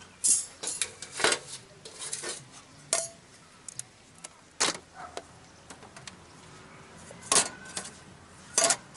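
Metal camp cookware and utensils clinking and clattering as they are handled, in a handful of short, separate clatters.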